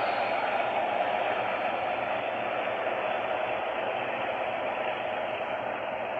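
Boxcars of a freight train rolling past, their steel wheels on the rails making a steady noise that eases off slightly.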